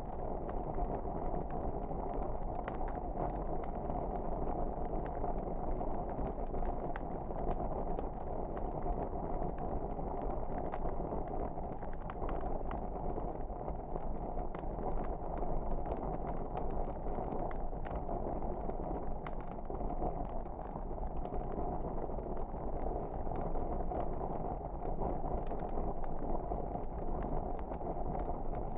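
Wood fire burning in a fireplace: a steady low rush of flame with many small, irregular crackles and pops.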